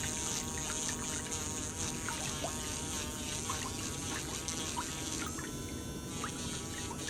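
Water trickling and dripping, with many small, quick plinks over a steady wash, and soft sustained tones of background music beneath.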